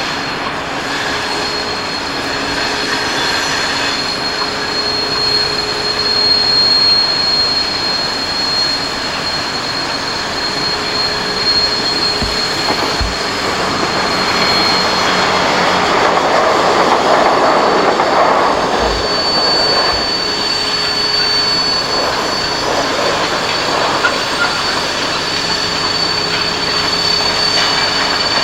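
Freight train passing, its wheels rolling on the rails with a thin, steady high squeal, and a louder swell about two-thirds of the way through.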